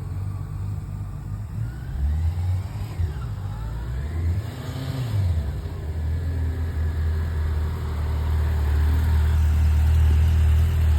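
Yamaha FJR1300 motorcycle's inline-four engine running at low speed, the revs rising and falling with the throttle. It grows louder over the last few seconds.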